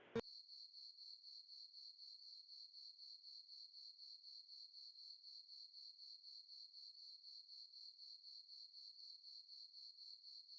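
Faint cricket chirping: a high, steady trill of rapid, evenly spaced pulses, after a brief click at the very start.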